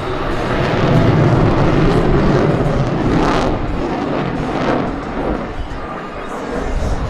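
F-16 fighter jet engine running at high power during takeoff: a loud, continuous low rumble, strongest a second or two in.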